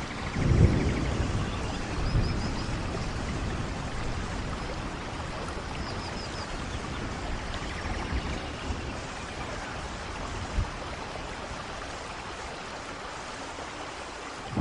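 Steady rainforest rain falling, with a low rumble about half a second in and faint short high chirps twice.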